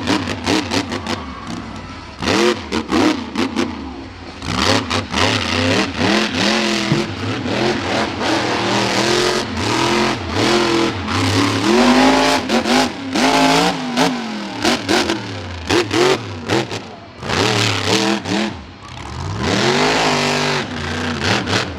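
A monster truck engine revving hard during a freestyle run, its pitch rising and falling again and again. Sharp cracks and bangs are scattered throughout.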